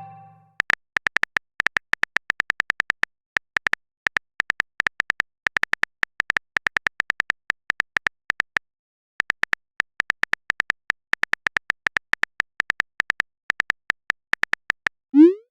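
Phone keyboard typing sound effect: rapid, uneven key-tap clicks with a brief pause about nine seconds in, as a chat message is typed out. Near the end a short rising 'bloop' message-sent sound plays.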